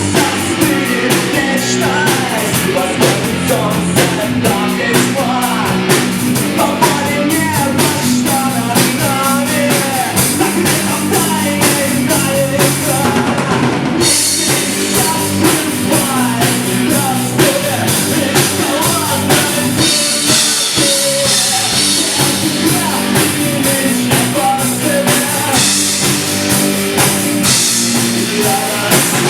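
Live rock band playing loudly: a drum kit keeps a driving beat under electric guitar and bass in an instrumental passage.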